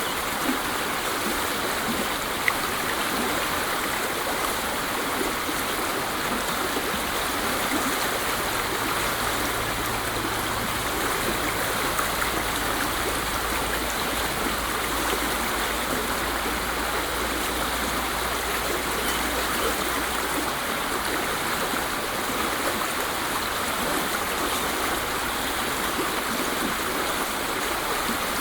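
Waterfall: water falling and splashing in a steady, even rush with no pauses.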